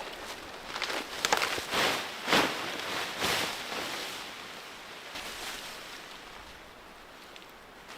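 Scrubby brush and undergrowth rustling in several bursts over the first few seconds as it is pulled and cleared by hand to make a tent site, then dying down to a quiet outdoor background.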